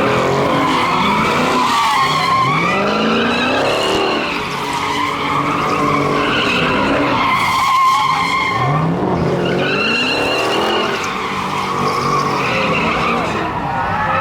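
Tyres squealing steadily as a V8 Hemi muscle car slides in a drift, with the engine revving up several times, its pitch climbing with each rev.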